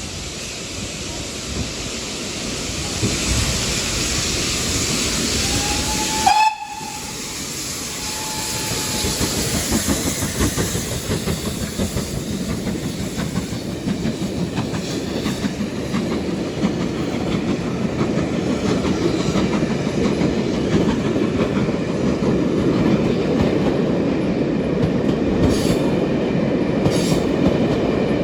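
GWR Castle-class steam locomotive Nunney Castle passing with its train: a hiss of steam, one short whistle blast about six seconds in, then the rumble and wheel clatter of the coaches growing louder.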